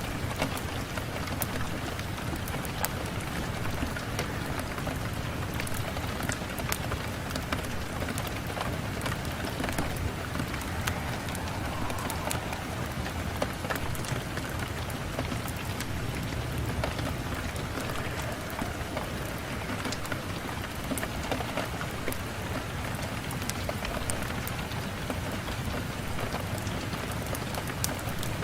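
Steady rain on a window pane: a continuous hiss with many scattered sharp drop ticks.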